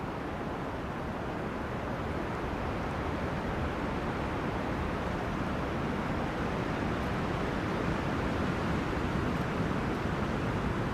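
Wind blowing through forest trees: a steady, even rush of noise that grows gradually louder.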